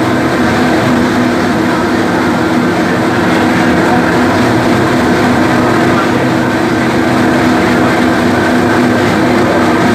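A freight train crossing a steel truss railroad bridge, a steady continuous rumble, heard over the constant low hum of the riverboat's engine.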